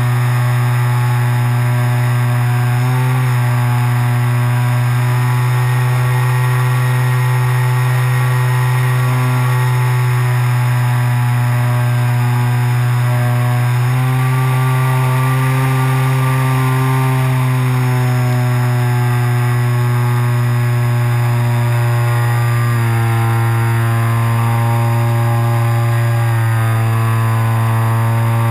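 Electric RC glider's motor and propeller running steadily, recorded from on board, its pitch stepping up and down a few times with throttle changes.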